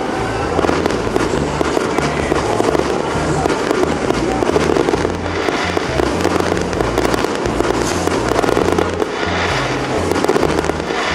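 Fireworks going off in dense, continuous crackling and popping, with music playing over it.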